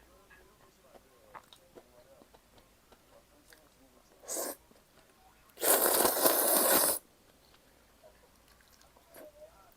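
Slurping cold soba noodles: a short slurp about four seconds in, then a long, loud slurp lasting about a second and a half, with faint chewing sounds before them.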